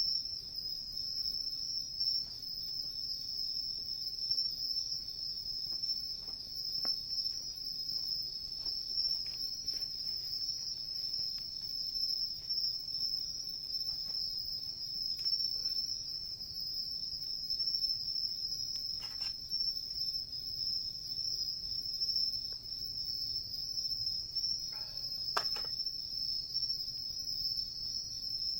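Crickets chirring steadily in a continuous high-pitched trill. Now and then comes a faint crackle from the burning wood fire, two of them clearer near the end.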